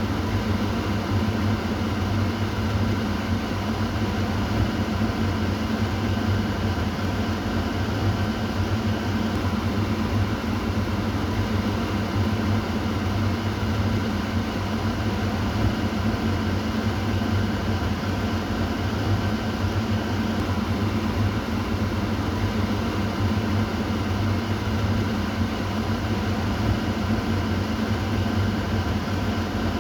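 Kitchen exhaust fan running steadily, a constant motor hum with airflow noise.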